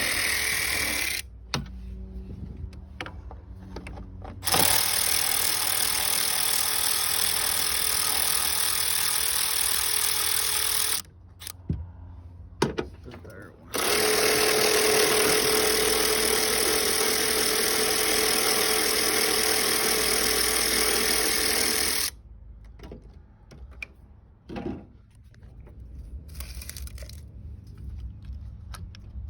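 Power ratchet with a 10 mm socket running in three bursts of several seconds each, starting and stopping abruptly, as it backs out the screws holding the wiper motor cowl. Small clicks and knocks of the tool and parts come between the bursts.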